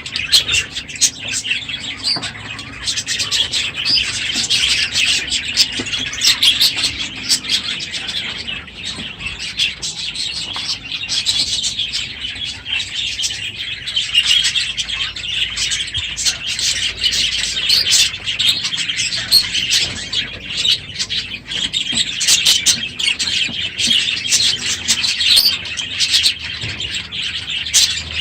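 A flock of budgerigars chattering and chirping together, a dense, continuous warble of many overlapping calls with sharp chirps throughout.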